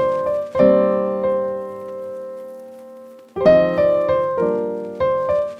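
Background piano music: gentle notes and chords that ring and fade, with one long held chord dying away before a new phrase begins about three and a half seconds in.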